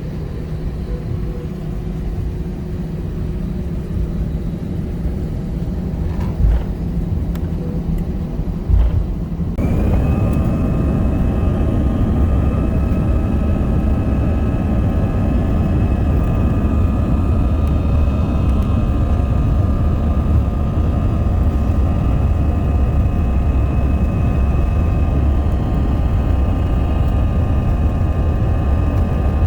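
Jet airliner heard from inside the cabin: a steady engine rumble while taxiing, then about ten seconds in the engines spool up to takeoff thrust, the sound suddenly getting louder with a steady high whine over the rumble. Two short knocks come just before the spool-up.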